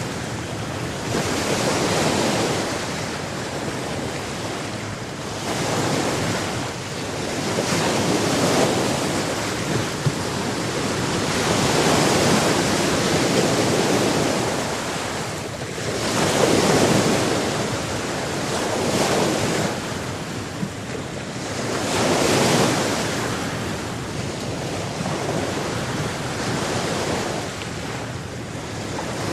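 Sea waves breaking and washing on a shore, the surf swelling and falling back every few seconds, with wind.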